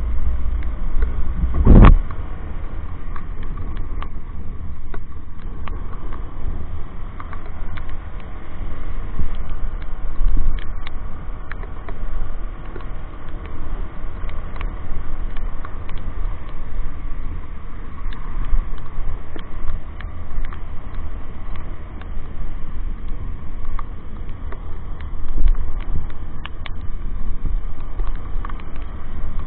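Steady rumble of wind and road noise on a motorcycle rider's microphone while riding, with a loud thump about two seconds in and scattered small ticks.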